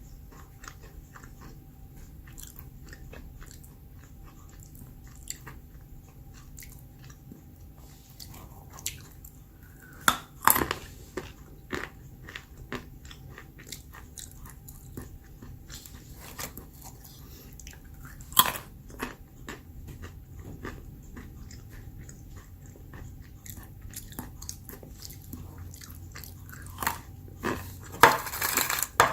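Close-up chewing of crunchy roasted almonds: a steady run of small crunches, with a few louder bites now and then, the loudest near the end.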